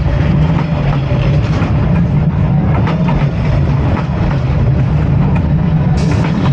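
Train rolling past at close range: a loud, steady low rumble with a dense clatter of wheel clicks over the rails, and a brief high hiss near the end.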